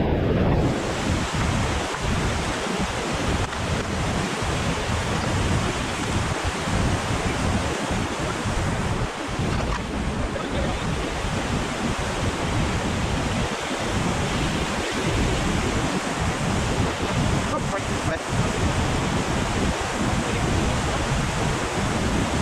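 Whitewater of a river rapid rushing with a steady roar, with wind buffeting the microphone.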